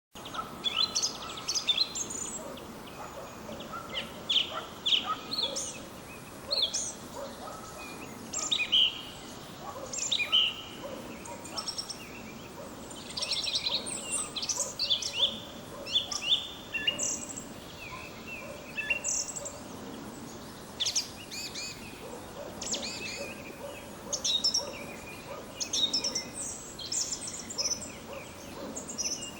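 Song thrush singing its spring territorial song: loud, varied phrases of clear whistles and sharp notes, many phrases sung two or three times over before moving on, with short pauses between.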